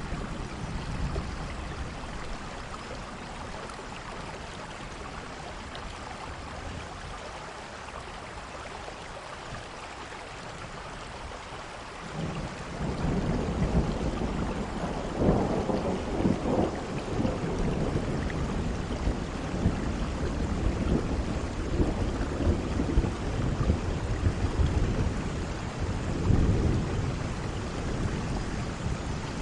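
Steady rain with rolling thunder: after a quieter stretch of rain alone, a long low rumble of thunder builds a little before halfway and keeps swelling and fading in waves to the end.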